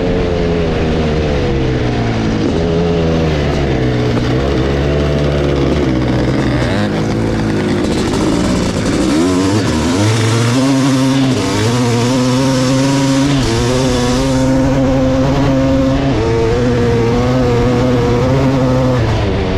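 1986 Kawasaki KX500 single-cylinder two-stroke engine running loud through an FMF Gnarly expansion-chamber exhaust. Its revs rise and fall repeatedly through the first half, dip briefly about halfway, then hold a steadier, higher pitch.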